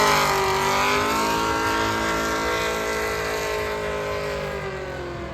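A vehicle engine note, its pitch slowly falling and its level fading over several seconds, like a truck coasting off the throttle or pulling away.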